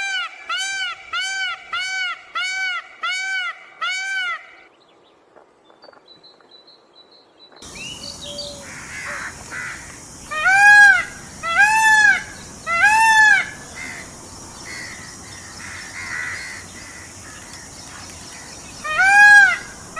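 Indian peafowl (peacock) calling: a quick run of about eight loud, arched calls in the first four seconds, then after a lull three more spaced calls and another two near the end. A steady high hiss sits under the later calls.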